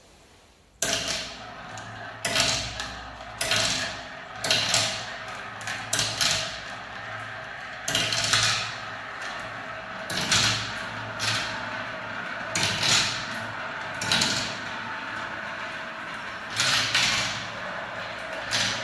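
Balls rolling down a spiral-ramp marble run, starting suddenly about a second in. A continuous rolling rattle swells into louder clatters roughly once a second.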